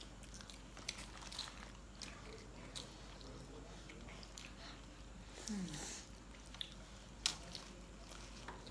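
Close mouth sounds of people eating a beef burger and fries: bites and chewing with scattered soft wet smacks and clicks. A short vocal sound is heard about five and a half seconds in.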